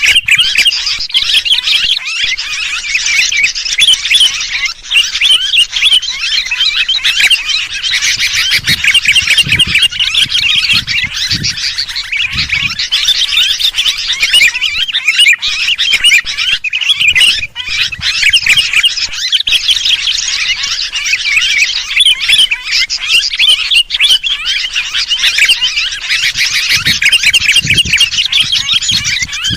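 Sooty-headed bulbuls (kutilang) in noisy, excited chatter: a dense, unbroken stream of rapid overlapping calls. It is a bird-lure (pikat) call recording meant to draw other birds in.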